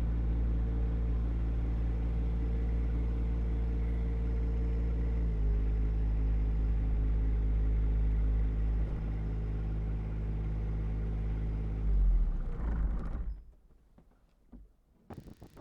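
John Deere 1025R compact tractor's three-cylinder diesel engine running steadily, dipping slightly in pitch about five seconds in. About twelve seconds in it winds down in pitch and shuts off, leaving a few faint knocks.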